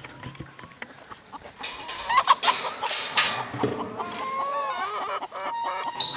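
Chickens clucking and calling, several birds at once, starting about two seconds in.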